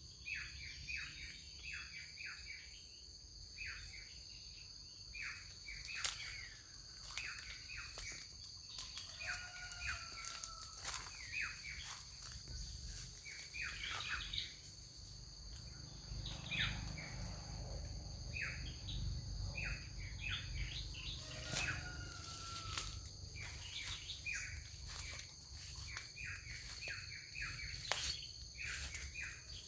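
Songbirds chirping in the countryside: many short, quick chirps repeating through the whole stretch, with a few short whistled slides. Underneath runs a steady high-pitched insect buzz and a low rumble that swells in the middle.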